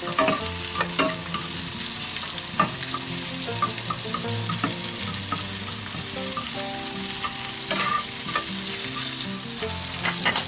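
Salted cucumber slices sizzling as they stir-fry in oil in a nonstick frying pan, with a wooden spatula and chopsticks tapping and scraping against the pan now and then.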